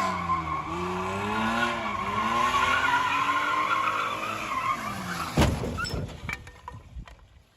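Car tyres squealing over the running engine, with a wavering whine and gliding pitch, then a sudden loud bang about five seconds in and a few smaller knocks as it dies away.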